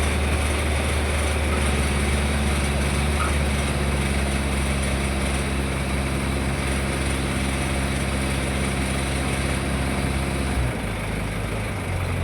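Heavy vehicle engine running steadily at a low, even pitch, then dropping to a lower note about ten and a half seconds in.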